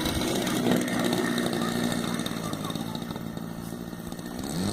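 A small engine running steadily, then revving up sharply near the end.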